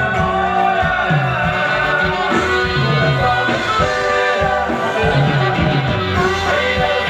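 Live band playing a song with a singer, over a steady, repeating bass line.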